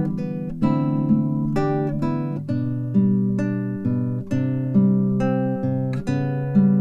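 Acoustic guitar playing plucked and strummed chords that change every half second to a second.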